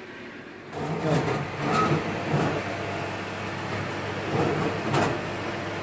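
Fan oven switching on about a second in and running with a steady hum, with a few brief knocks and clatters over it.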